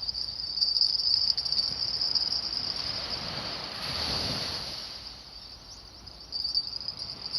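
Steady high-pitched insect chirring, with a broad swell of rushing noise about four seconds in.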